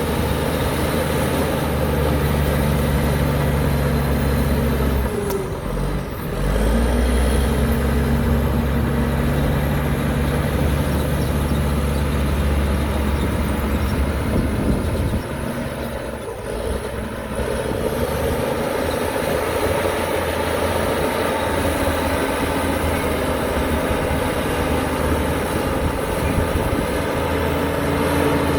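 Heavy diesel engine of earth-moving machinery running steadily. Its note dips and shifts briefly about five seconds in, and again around fifteen seconds in.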